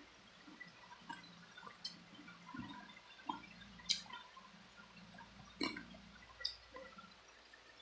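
Close-miked mouth sounds of eating chicken feet: scattered wet smacks, sucks and clicks of chewing, with two louder smacks about four and five and a half seconds in.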